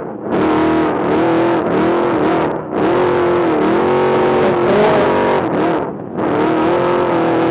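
Trophy truck's race engine running hard at high revs, its pitch wavering with the throttle. The sound drops off briefly twice, about a third of the way in and again near the end, as the throttle is lifted.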